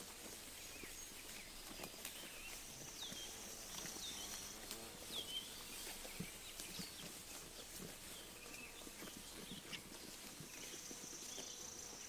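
Sheep grazing close by, tearing and chewing grass in many small irregular crunches and clicks. Small birds chirp in short calls throughout, with a thin high trill twice.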